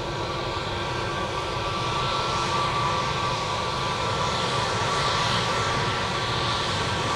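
Jet airliner engines running: a steady high whine over a broad rush, growing slightly louder.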